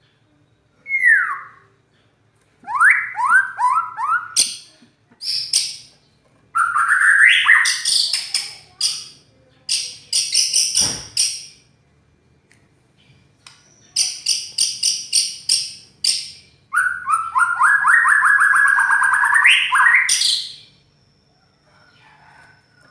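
White-rumped shama (murai batu) singing in loud, separate phrases: quick downward-sweeping whistles, fast trills and strings of harsh clipped notes, with short pauses between phrases. A brief knock sounds about halfway through, and the song stops a couple of seconds before the end.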